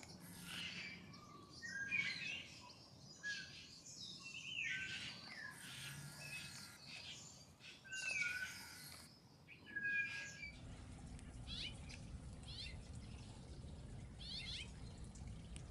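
Birds chirping in short, scattered calls, some gliding slightly in pitch. About ten seconds in, the background changes to a steady low hum, and the chirps that follow are fainter and higher.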